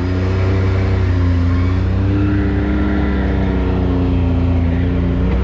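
Can-Am Maverick X3 side-by-side's turbocharged three-cylinder engine running steadily under way, its pitch wavering only a little.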